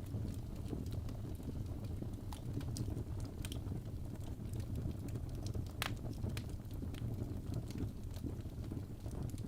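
Wood fire burning in a fireplace: a steady low rumble of flames with irregular crackles and pops from the logs, one sharper pop about six seconds in.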